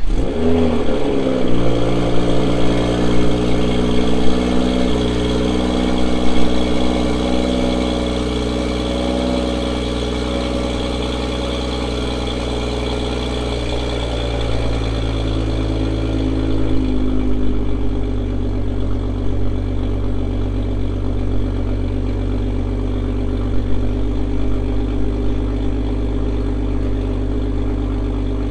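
Toyota Supra MkV's turbocharged 3.0-litre inline-six, fitted with an Active Autowerkes catted downpipe, starting up with a quick flare and then idling at a raised speed. Around 17 seconds in the idle settles to a lower, steady speed.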